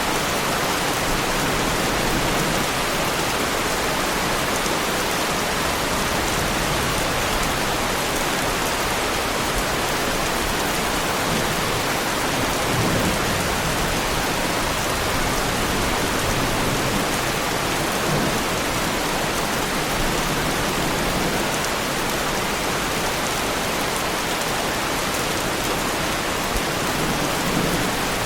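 Heavy rain falling steadily on a car, a dense, even hiss of drops with a few faint low rumbles now and then.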